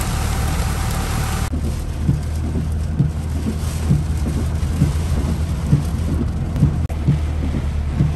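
Heavy hurricane rain. At first it is a loud hiss from outside; about a second and a half in it turns muffled, heard from inside a car as a deep steady rumble of rain on the roof and windshield. Regular thuds come about once a second from the windshield wipers.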